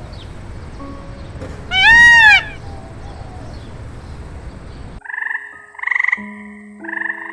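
Animal calls: one loud, high call that rises and falls in pitch about two seconds in, over a steady noisy background. From about five seconds in comes a run of short pulsed calls, repeating roughly once a second.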